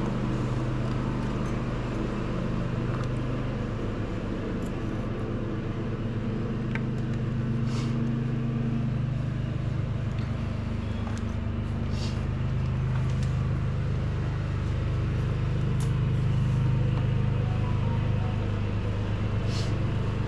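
An engine running steadily, with its pitch and loudness swelling a little now and then, and a few light metallic clicks.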